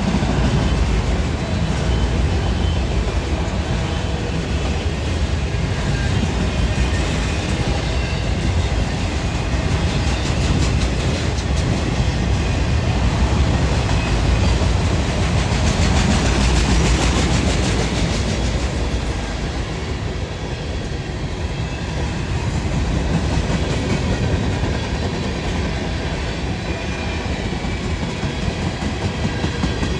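Cars of a long Norfolk Southern freight train rolling past, a steady rumble with the wheels clicking over the rail joints. The clicking gets louder and brighter around the middle, then eases off.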